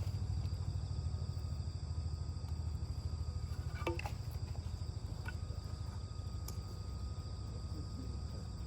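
Wood fire in a small fire pit burning with a steady low rumble and a few sharp crackles, over a steady high insect trill.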